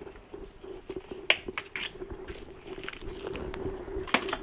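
A few short, sharp clicks and light handling noises from small parts and hand tools being handled, over a steady low hum.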